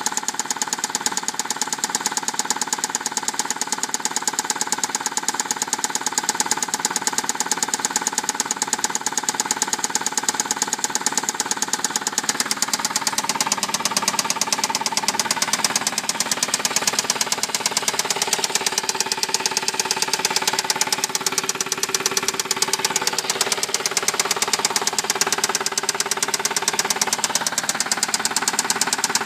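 Saab car engine running with a fast, steady, regular knock.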